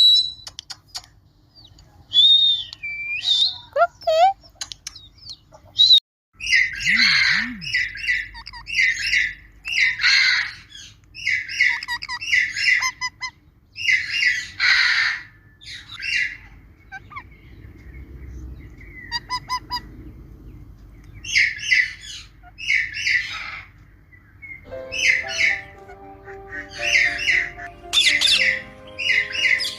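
Parrot calling in repeated short squawks and chattering bursts, with a brief break about six seconds in. Background music comes in under the calls near the end.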